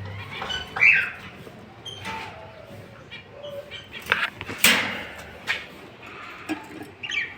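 Lovebirds giving short chirping calls, loudest about a second in, among scattered clicks, with a sharp knock or flutter about four and a half seconds in.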